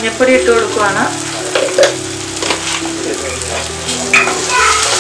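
Ground masala paste frying and sizzling in oil in a nonstick pan as it is stirred with a wooden spatula, with a few sharp clicks of the spatula against the pan. Soft background music with long held notes runs underneath.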